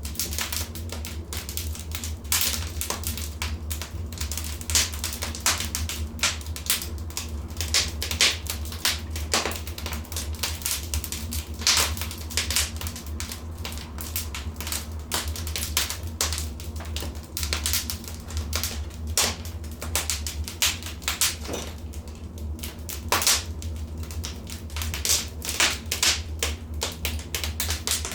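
Wood fire crackling in a fireplace: irregular sharp pops and snaps, several a second, some louder than others, over a steady low rumble.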